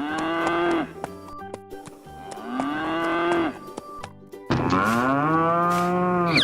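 Cow mooing three times, each moo long and drawn out, rising and then falling in pitch; the last is the longest.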